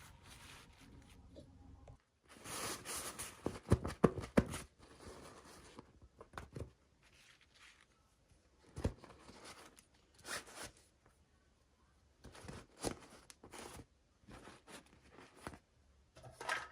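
Crinkly toy packaging being torn open and handled: a loud burst of crackling and tearing about two seconds in, then scattered rustles and sharp clicks.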